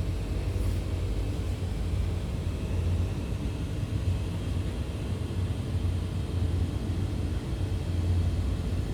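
Steady low rumble of a passenger train running, heard from inside the sleeper carriage.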